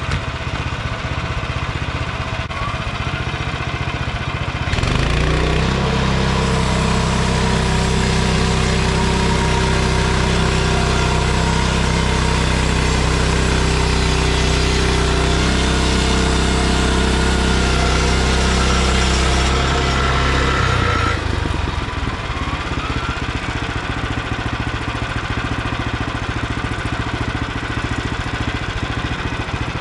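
Frontier OS23 bandsaw mill's small gas engine idling, then throttled up about five seconds in and run at speed for about fifteen seconds, with a high whine near the end of the high-speed stretch. It drops back to idle a little over twenty seconds in.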